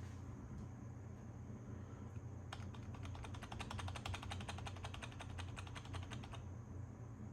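Typing on a computer keyboard: a quick run of key clicks for about four seconds, starting about two and a half seconds in.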